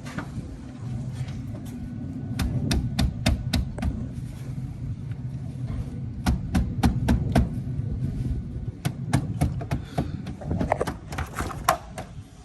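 Hand-tool work on a truck: repeated sharp taps and clicks in irregular clusters over a low steady rumble.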